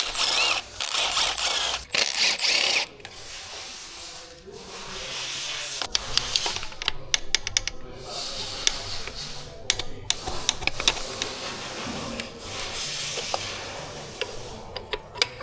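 Hand tools working on a car engine during teardown: irregular metallic clicks, rattles and clinks of tools and bolts, with a few short hissy bursts near the start.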